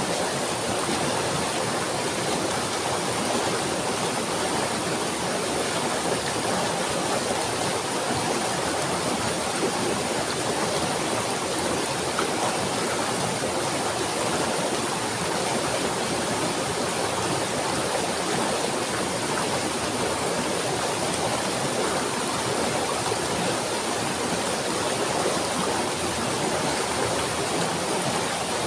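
Running water, like a stream or small waterfall, rushing in a steady, unbroken wash.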